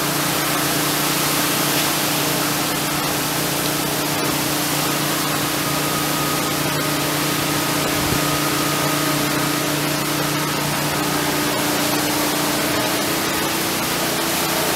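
Hurricane wind and rain as a steady, even hiss, with the steady hum of a neighbour's generator running underneath.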